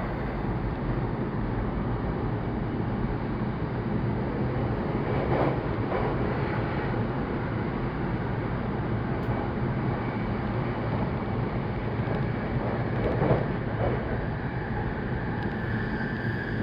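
Train running noise heard inside a Saikyo Line commuter train car: a steady wheel-on-rail rush with a low hum. Two brief louder jolts come about five and thirteen seconds in.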